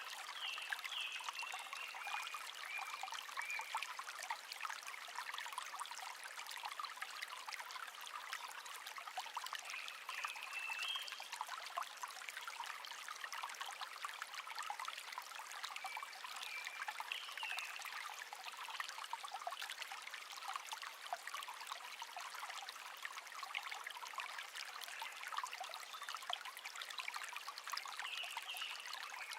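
A shallow brook babbling steadily over stones, with a wild songbird singing four short phrases: near the start, about a third of the way in, around the middle and near the end.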